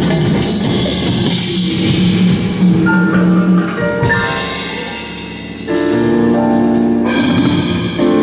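Live rock band playing, with drum kit and sustained keyboard and guitar notes. The music thins and drops in level about four seconds in, then the full band comes back in hard just before six seconds.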